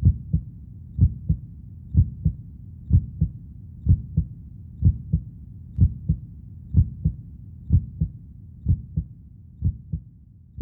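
Heartbeat sound effect: a low double thump, lub-dub, about once a second, growing fainter near the end.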